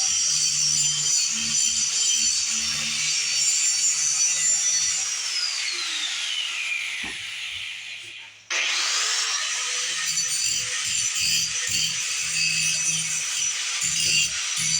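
Angle grinder cleaning up welds on a patched exhaust, running with a steady high whine and grinding noise. About five seconds in it is let off and spins down with a falling whine. About eight and a half seconds in it is started again, spins up quickly and grinds on.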